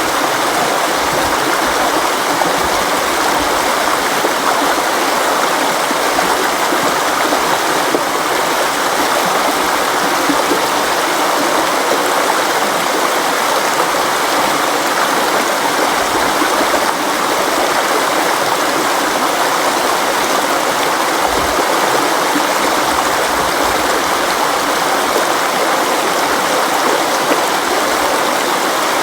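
Flowing river water, a steady, even rush of a stream over rocks.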